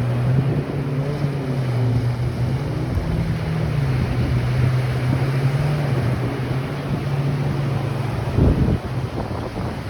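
Ocean surf washing in with wind on the microphone, under a steady low motor drone. A gust buffets the microphone about eight and a half seconds in.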